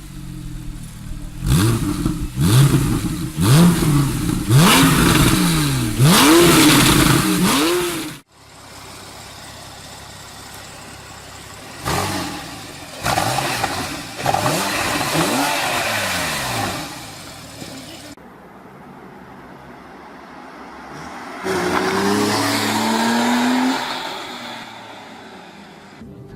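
Porsche 911 Carrera S flat-six engine revving hard several times in quick succession, its pitch climbing and dropping with each rev; after an abrupt cut come further shorter bursts of revving.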